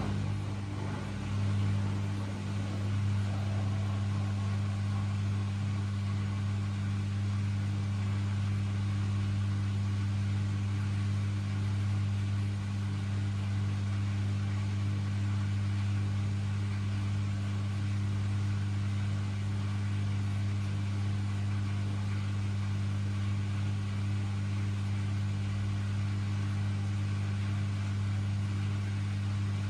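Miele W1 washing machine running with a loud, steady hum that holds one pitch throughout.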